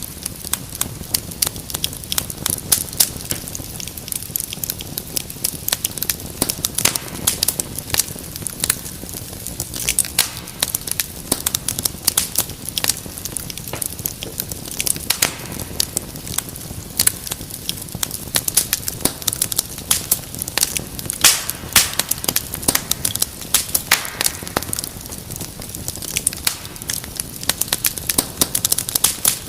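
Wood fire in a fireplace crackling, with frequent irregular sharp pops and snaps over a low, steady rumble of flames.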